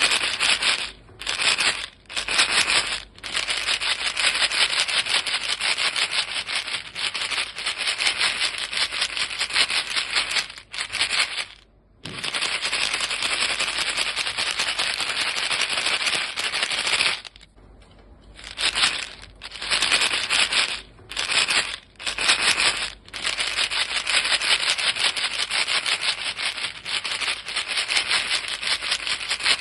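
A box of chewing-gum pellets shaken fast, the gum rattling dense and loud inside. It comes in long unbroken runs of several seconds, with short pauses about twelve and eighteen seconds in and a few short quick shakes at the start and around the twentieth second.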